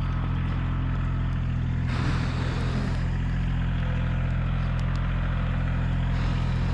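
Heavy equipment engine running steadily, with a burst of added noise from about two seconds in until near the end.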